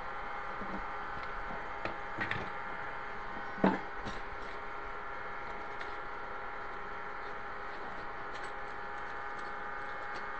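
Scattered light clicks and knocks of wood and metal being handled during work on a kitchen cabinet's pull-out basket and rails, with one sharper knock about three and a half seconds in, over a steady background hum.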